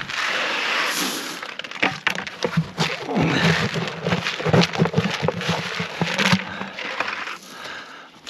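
Calf feed being handled: dry rustling and crackling with many small sharp cracks.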